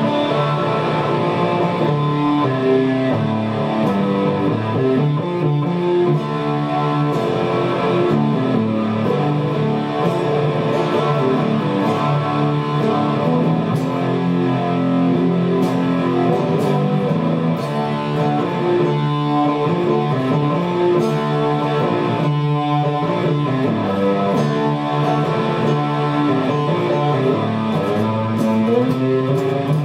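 Guitar music: plucked and strummed guitar notes with a bass line, playing continuously at a steady level.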